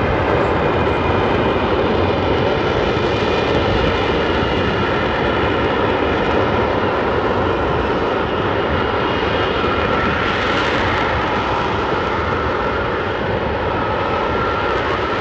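Loud, steady engine noise from a military fighter jet flying overhead, with a faint whine over the noise that eases slightly near the end.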